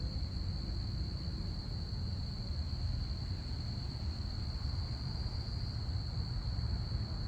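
Crickets chirping in a continuous high-pitched trill, over a steady low rumble.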